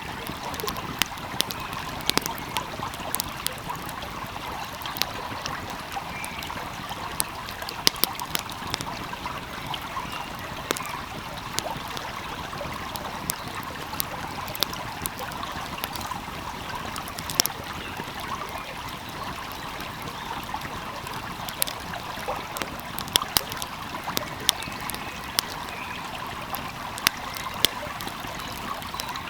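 A steadily flowing, trickling stream, with a wood fire crackling over it in sharp, irregular pops and snaps.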